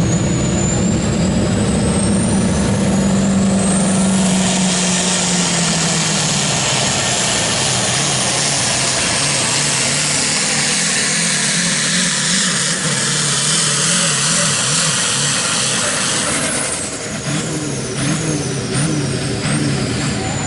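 Turbocharged diesel pulling tractor at full throttle: a high turbo whistle rises over the first few seconds, then the engine runs loud and steady. Near the end the throttle eases and the turbo whistle falls away in several steps.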